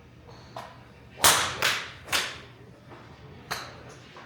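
Three sharp whip-like swishes in quick succession, about half a second apart, then a fainter one about a second later.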